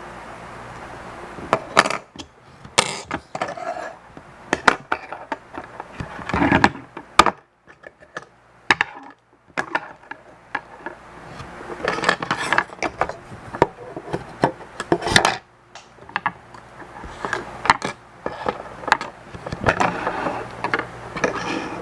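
Irregular clicks, taps and knocks of small plastic and metal parts and hand tools being handled while an OMRON H7CN-XLN digital counter is taken apart. Some come in quick clusters, and there is a short pause in the middle.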